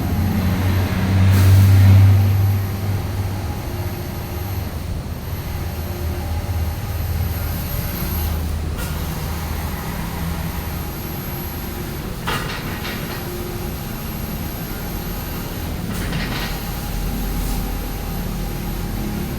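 Air-conditioner outdoor unit running with a steady low hum, loudest about two seconds in, with a few short clicks over it.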